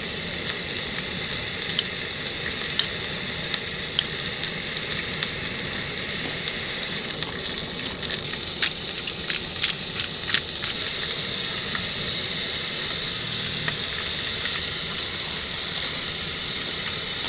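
Meat frying, a steady sizzling hiss with scattered crackles and pops, most of them around the middle.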